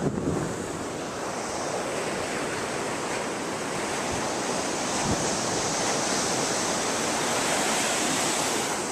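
Ocean surf washing up the beach, a steady rush of water that swells over the second half and then eases near the end.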